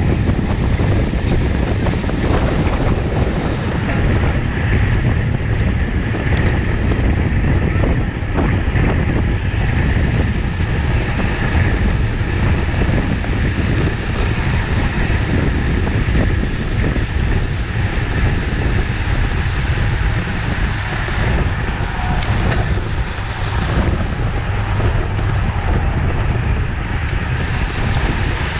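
Steady wind buffeting the microphone of a camera on a road bicycle moving at race speed, a continuous low rumbling rush without breaks.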